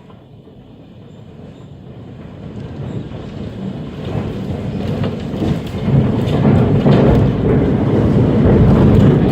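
Roar of a large tornado passing close by, growing steadily from faint to loud over about six seconds and then holding loud, with scattered sharp clicks from about four seconds in.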